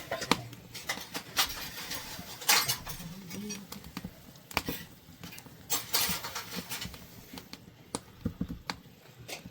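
Irregular clicks, taps and light knocks of kitchen work: utensils and dishes being handled during food preparation.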